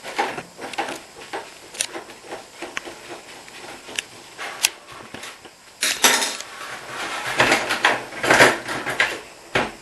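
Metal clinking and clattering as a loose dishwasher door hinge is worked free of the sheet-metal door and housing: scattered clicks at first, then a denser, louder run of clatter from about six seconds in.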